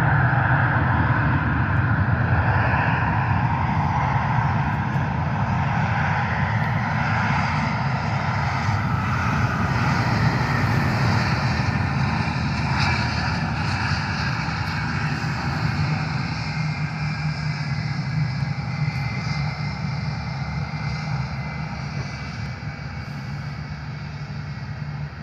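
Airplane engine noise, a steady rush with some held tones, slowly fading as the aircraft moves away.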